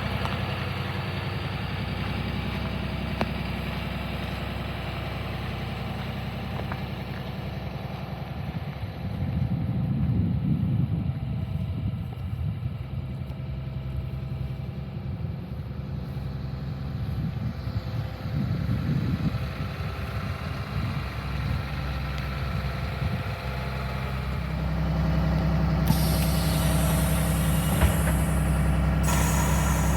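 A 6.7-litre Cummins diesel in a school bus idling steadily while its air system builds pressure. The engine note grows louder about 25 seconds in, and a hiss of air starts shortly after and runs to the end, just as the air comes up.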